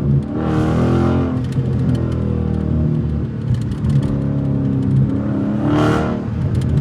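Straight-piped Dodge Challenger Scat Pack's 6.4-litre HEMI V8 running while driving, its pitch rising and falling with the throttle. It swells louder twice, about a second in and again near the end.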